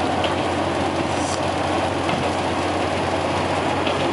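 Diesel railcar running along the track, heard from on board: a steady engine hum under wheel and rail noise, with a few faint clicks.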